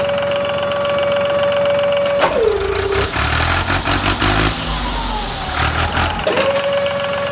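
A steady high whine from a small motor. About two seconds in it drops in pitch and stops while a loud, rumbling engine-like sound takes over for about four seconds. The whine then returns, rising back to its pitch.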